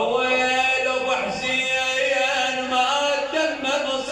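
A man's voice chanting an unaccompanied mournful lament in long held notes that waver and bend in pitch.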